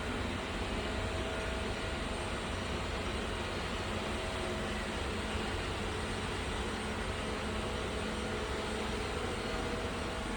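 Roborock Qrevo S robot vacuum running, a steady whir at a constant level with a few faint steady tones in it.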